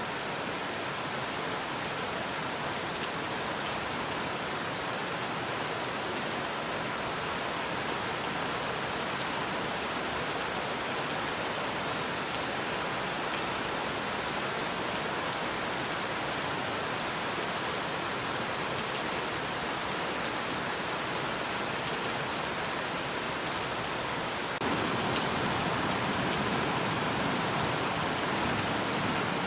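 Steady rain falling: a dense, even hiss with fine patter of drops. About 25 seconds in it turns slightly louder and fuller in the low end.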